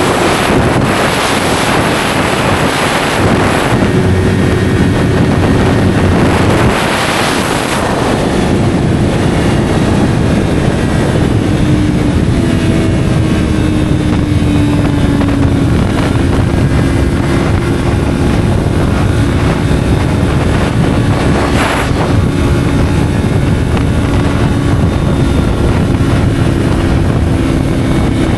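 Yamaha R3's 321 cc parallel-twin engine running through an SC Project slip-on exhaust while being ridden, with heavy wind rush on the microphone. About eight seconds in the wind eases and the engine settles into a steady cruising note that holds nearly the same pitch.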